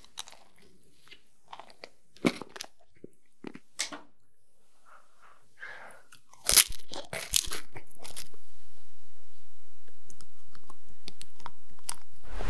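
Close-miked biting and chewing of chocolate treats topped with candy-coated chocolates: a series of sharp, crisp crunches, the loudest a little past halfway.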